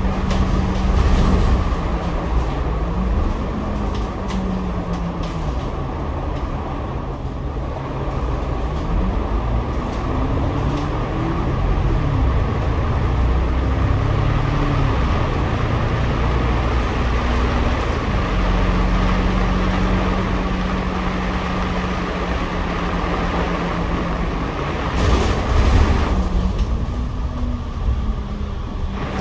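Double-decker bus drivetrain heard from the upper deck over road and tyre noise. The engine's pitch rises and falls several times as the bus accelerates and shifts gear, then holds steady while it cruises.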